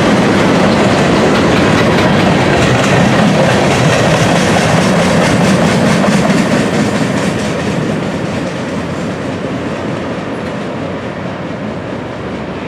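Freight train of gondola cars rolling past, steel wheels clicking over the rail joints in a steady clickety-clack, growing quieter from about halfway through.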